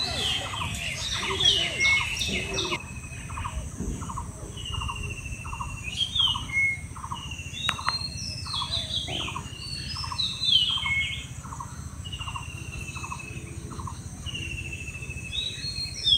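Forest birds calling: repeated chirping phrases mixed with an even series of short, lower notes about twice a second.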